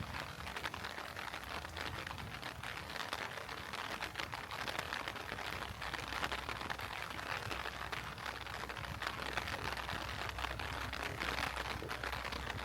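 Heavy rain falling: a steady, dense patter of many small drops.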